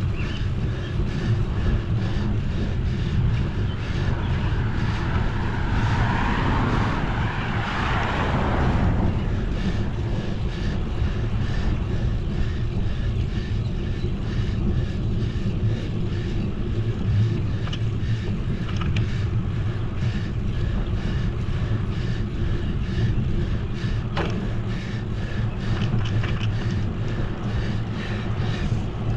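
Wind rushing over the microphone with steady road noise from a bicycle ride, and a swell of hissing noise about six to nine seconds in.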